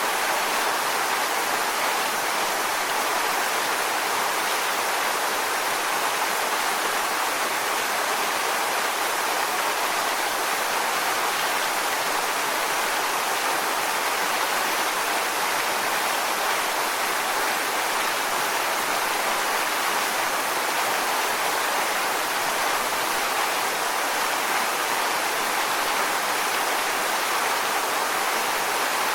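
Waterfall: water falling onto rocks in a steady, unbroken rush with no change.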